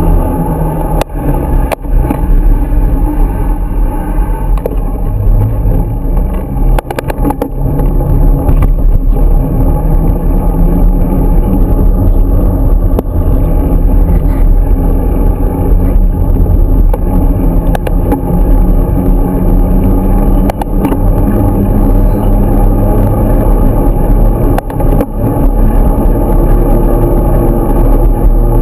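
Motorcycle engine running under way, its pitch rising and falling as the revs change, over a heavy low rumble, with a few brief knocks.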